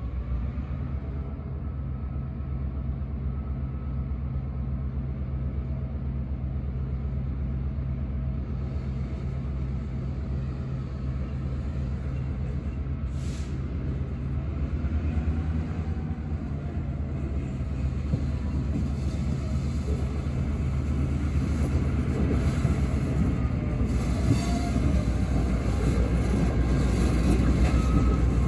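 Diesel freight locomotive running steadily as it shoves a string of freight cars slowly along the track, a low engine drone under the rumble of wheels rolling on the rails. The sound grows louder as the train comes closer.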